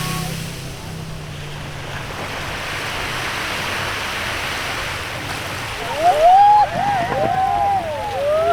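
Sea waves washing onto a beach in a steady rush. About six seconds in, several overlapping high calls rising and falling in pitch come in over the surf and are the loudest sound.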